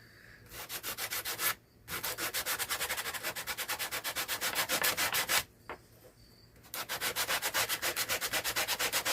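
Sandpaper rubbed quickly back and forth by hand on the top of a homemade radio knob, cleaning it up. Three runs of fast, even scraping strokes, with two short pauses between them.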